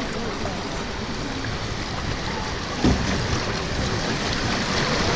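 River rapids rushing and splashing around a boat, with wind on the microphone. A brief thump about three seconds in, and the rush grows louder near the end.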